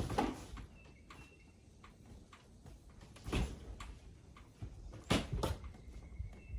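A few knocks and scraping thuds from work to free a boat's half-cab top: one right at the start, one about three and a half seconds in, and two close together about five seconds in.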